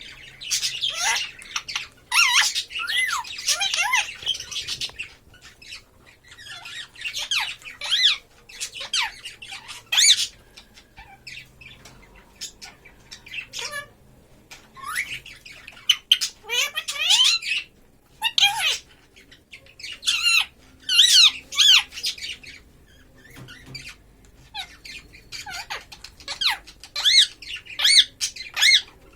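Pet parrot squawking and chattering in repeated bursts of short, sharply rising and falling high-pitched calls, with brief pauses between the bursts.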